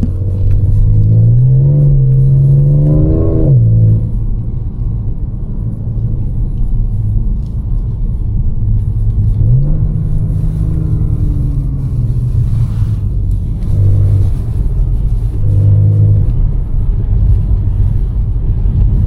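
Supercharged 3.0-litre V6 of a tuned Audi S5 pulling under acceleration, its pitch climbing and then dropping sharply about three and a half seconds in, climbing again near the middle and then holding at a steady cruise with small rises and falls.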